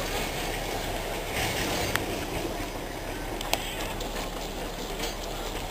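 Darjeeling Himalayan Railway narrow-gauge toy-train carriage running steadily on the rails, heard from aboard as a continuous rumble. Two sharp clicks come through, about two and three and a half seconds in.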